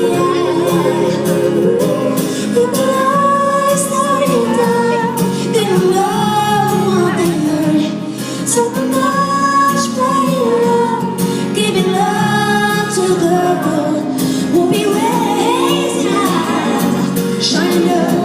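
Live pop song played by a band, with a woman singing long, gliding melodic lines over it.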